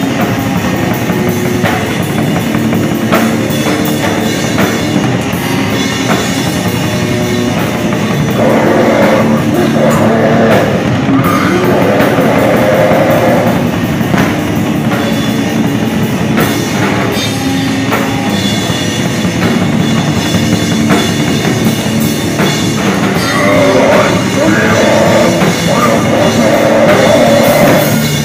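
Loud heavy rock music from a full band, with a drum kit and electric guitars, playing steadily throughout.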